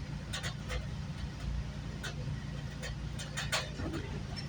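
Inside a moving GO Transit commuter train: a steady low rumble of the running train, with scattered sharp clicks and knocks at uneven intervals.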